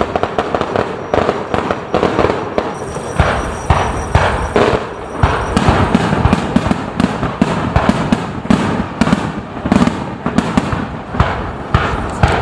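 Fireworks display in rapid barrage: a dense run of overlapping bangs and crackling reports with no pause between them.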